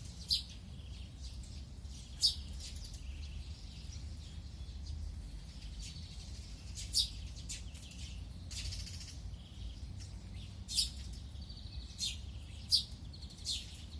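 Sparrows and a tit chirping: short single chirps every second or two, coming more often near the end, over a low steady rumble.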